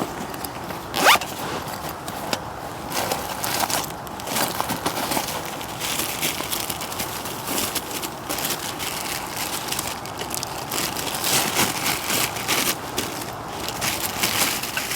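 A zip being pulled, with a loud short zipping pull about a second in, followed by repeated rustling and scraping of fabric and gear being handled.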